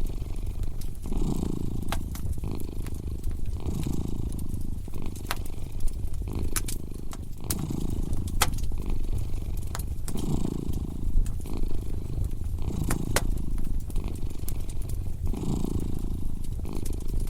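A cat purring in slow, even swells, one about every two and a half seconds, over a fireplace fire crackling with scattered sharp pops.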